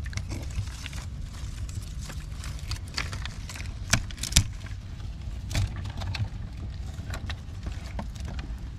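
Dry twigs and sticks clicking, rustling and snapping as they are handled and packed into a small dug-out fire pit. There are two sharp cracks about four seconds in, over a low steady rumble.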